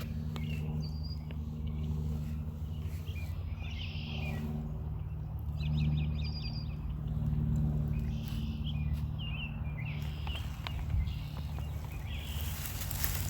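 Birds calling outdoors in short chirps and trills, a few seconds apart, over a steady low hum.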